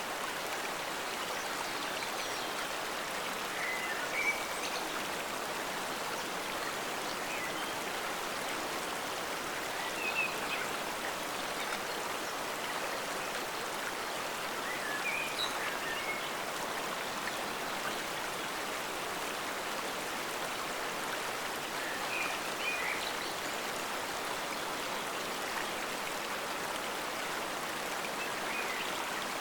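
Forest stream flowing: a steady, even rush of running water. A few brief higher sounds stand out above it every five or six seconds.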